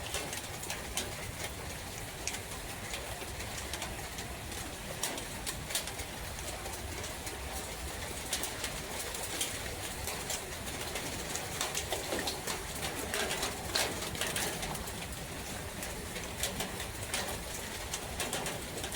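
Rain falling steadily in a forest, with many scattered sharp drop clicks, and a bird calling.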